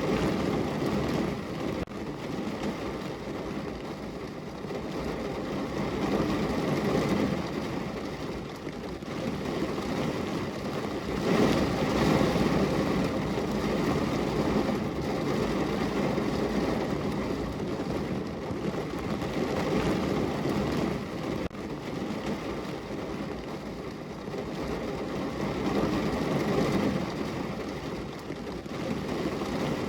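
Heavy rain falling on a car's roof, heard from inside the car: a dense, even patter that swells and eases every several seconds, heaviest a little before the middle.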